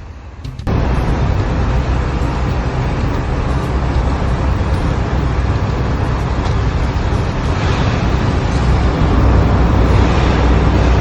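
A truck's engine running steadily: a loud, even rumble with a hiss over it, starting abruptly just under a second in.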